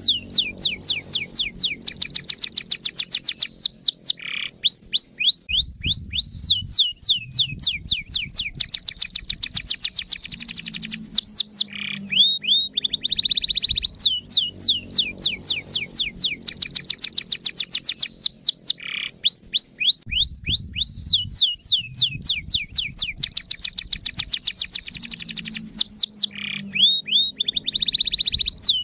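Canary singing long, fast trills of rapidly repeated falling notes, broken by short pauses, with the same song sequence repeating about every 14 seconds. It is a looped song recording, played to set other canaries singing.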